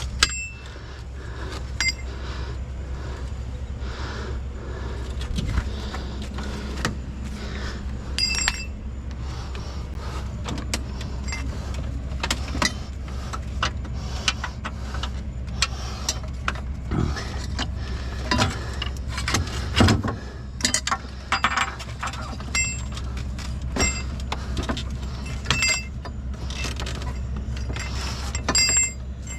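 A vehicle engine idling steadily, with many scattered metallic clinks and knocks, some of them ringing briefly.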